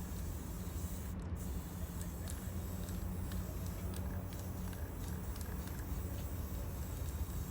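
Steady low rumble and hiss of outdoor background noise, with a few faint light ticks.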